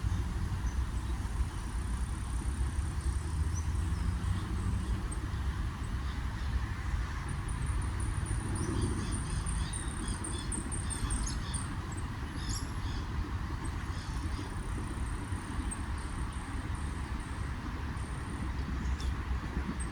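Outdoor park ambience: a steady low rumble with high chirping trills, and bird calls busiest in the middle.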